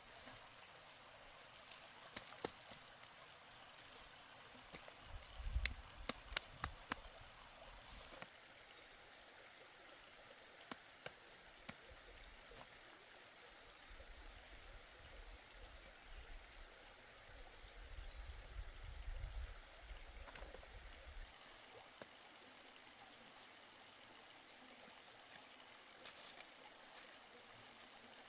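Faint running or trickling water, with a few sharp clicks and knocks about five to seven seconds in and a low rumble that comes and goes.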